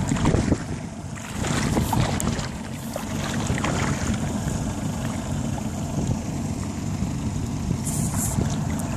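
Motorboat under way on a Suzuki DT140 two-stroke outboard, with wind buffeting the microphone and water rushing past the hull. The wind noise covers most of the engine's own sound.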